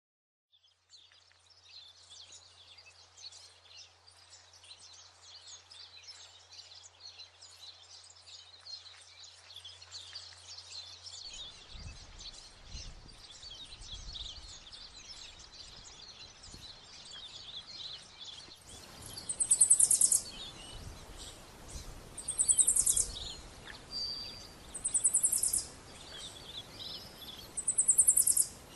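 Many small birds chirping and twittering together in a dense chorus. Partway through, the sound changes to a loud, very high, rapid trilled call, repeated four times, each about a second long and a few seconds apart.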